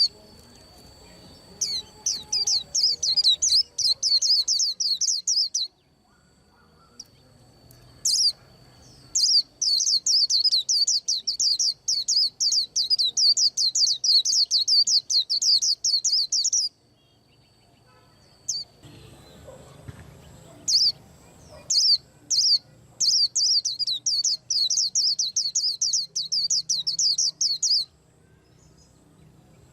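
White-eye singing: three long runs of rapid, high twittering notes, each lasting several seconds, with single chirps and short pauses between them.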